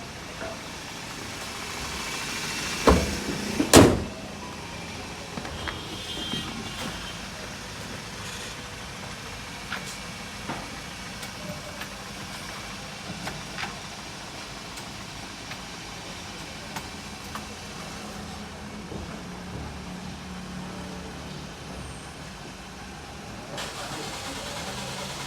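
Toyota Corolla XLi's engine running steadily, with two loud knocks about three and four seconds in and light clicks afterwards.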